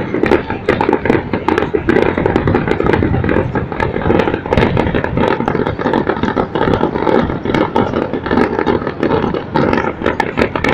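Fireworks going off in a dense, continuous barrage: many overlapping bangs and sharp cracks with no gaps between them.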